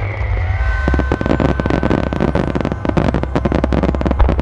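Starmine fireworks barrage: a dense run of sharp crackles and pops from many bursting shells and stars, starting about a second in, over a steady low rumble, with one loudest bang near the end.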